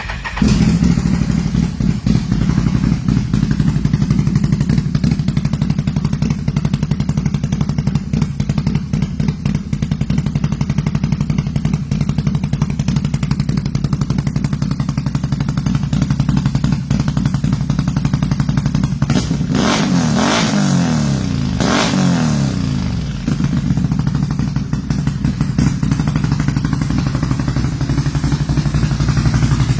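Can-Am Renegade XMR 1000 ATV's V-twin, big-bored to 1108 cc with 425 cams, through a full RJWC exhaust, starting up suddenly and running at a loud, steady idle. Around two-thirds of the way through it is revved up and back down a couple of times, then settles back to idle.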